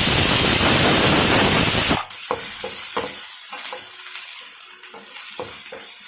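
Pressure cooker whistling, a loud hiss of escaping steam that cuts off suddenly about two seconds in. After it, a pan of frying onions and tomatoes crackles softly.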